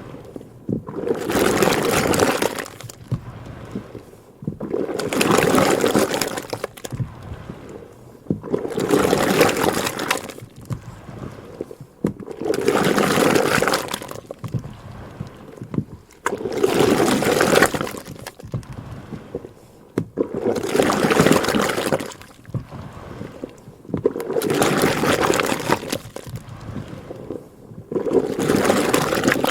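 Cream sloshing and splashing inside a butter churn, a rush of liquid that swells for about two seconds and repeats about every four seconds as the churn turns.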